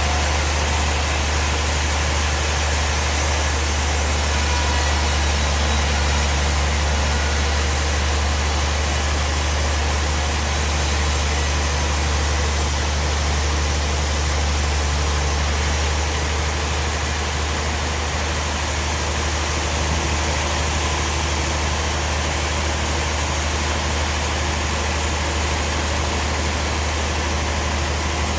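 Steady sawmill machinery running with a strong low hum under a broad even noise. The highest hiss drops away about halfway through.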